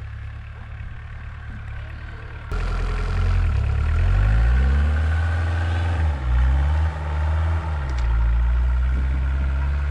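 Small diesel engine of a homemade 4x4 UTV running steadily, then suddenly louder about two and a half seconds in, with its revs rising and falling several times as it works.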